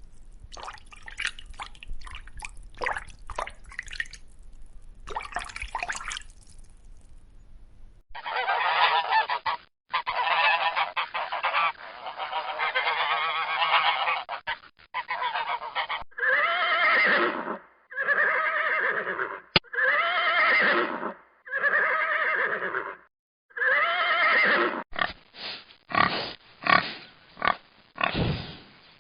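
Geese honking: a run of loud, nasal calls, first in a long stretch, then as separate honks about a second long, and near the end as quicker short honks. For the first several seconds, before the honking starts, there is only quieter clicking and crackling.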